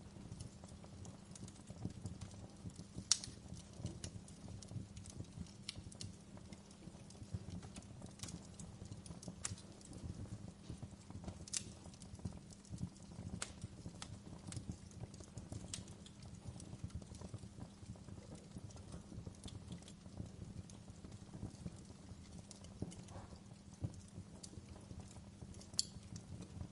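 Wood fire burning in a fireplace: a soft low rumble of flames with irregular crackles and sharp pops of the firewood, the loudest snaps about three seconds in and near the end.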